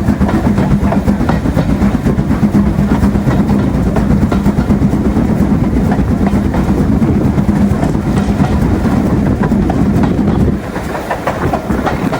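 Steam-hauled train behind LMS Stanier Class 8F locomotive 48305 running along the track, heard on board: a steady loud rumble with continuous rail clatter and a constant hum. It drops noticeably in level about ten and a half seconds in.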